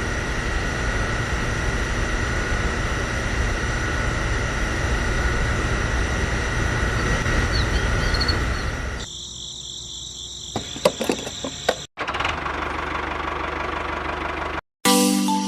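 A motor running steadily. After about nine seconds it cuts to shorter, quieter clips of machine running with a few sharp clicks.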